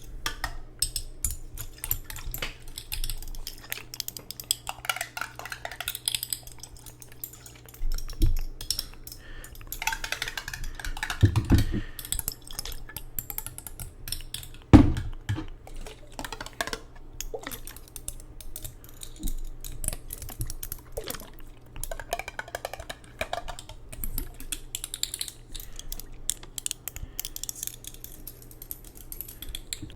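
Close-miked taps and clinks on a glass jar of water, many quick irregular clicks with a few heavier knocks, and some swishing of the water.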